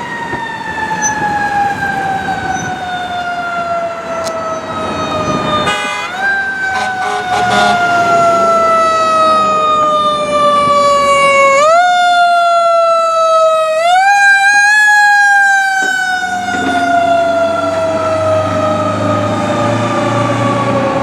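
Fire truck siren sounding as the truck responds. Its tone falls slowly in pitch and is pushed quickly back up three times. The truck's low engine rumble comes up underneath near the end.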